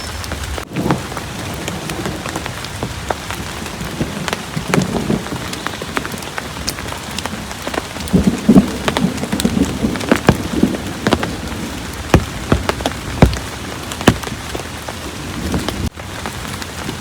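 Heavy rain falling steadily, with many sharp drops striking close by. Thunder rumbles low beneath it about four seconds in and again, more strongly, about eight to eleven seconds in.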